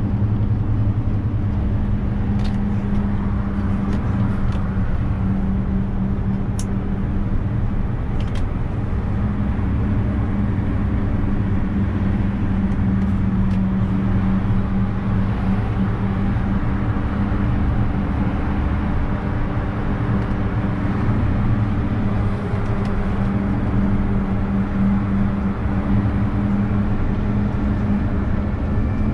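Renault truck running at a steady drone with a low rumble while driving, with a few faint clicks in the first several seconds.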